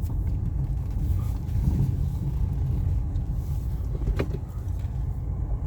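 Car driving with a steady low road rumble and a sharp knock from the front left wheel near the start and again about four seconds in; the cause of the knock is not yet known.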